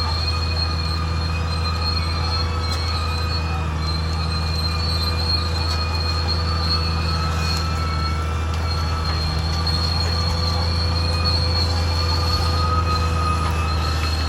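Caterpillar D6R XL bulldozer working: its diesel engine runs with a steady low drone while the steel tracks squeal in several high, slightly wavering tones.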